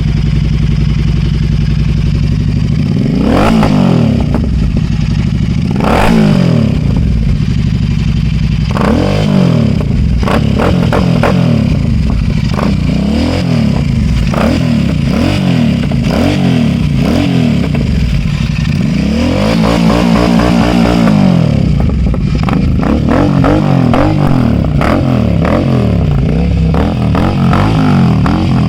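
Royal Enfield 650 parallel-twin engine breathing through an SS Moto Corp aftermarket exhaust, idling and then blipped on the throttle again and again. There are two short revs, then a run of quicker revs with a longer pull near the middle, and sharp crackles between some of the revs.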